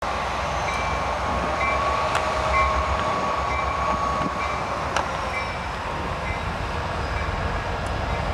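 Diesel locomotive running in a rail yard: a steady low rumble and a steady mid-pitched tone, with a short ring repeating about once a second and a few sharp clicks.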